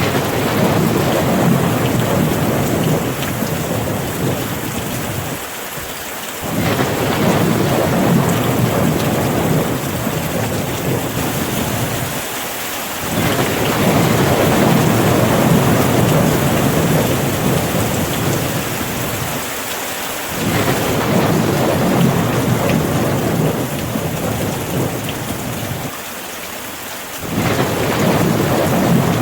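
Rain falling steadily through a thunderstorm, with long low rumbles of thunder rolling in one after another, each lasting several seconds with short lulls between.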